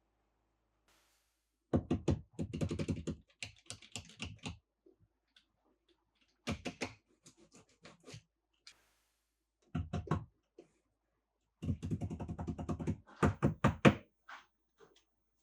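Small toy cars and their packaging handled, giving four bursts of rapid clicking and knocking with short pauses between them.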